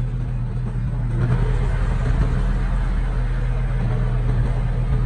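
Diesel engine of heavy earthmoving equipment running steadily, a little louder from about a second in.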